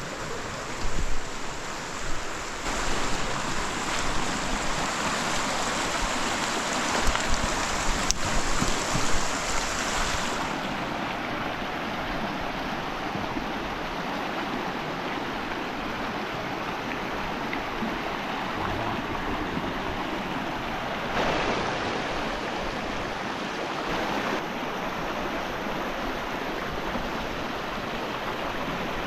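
Steady rush of falling and running mountain water, a waterfall or stream, with its tone shifting a little a third of the way in and again near the end.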